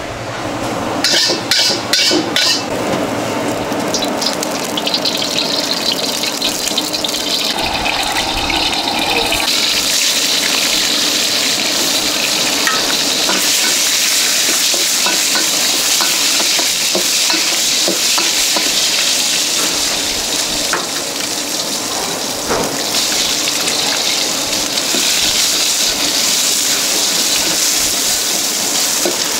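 Food sizzling as it fries in hot oil: a steady, loud sizzle that swells about ten seconds in, with a few metal clanks a second or two in.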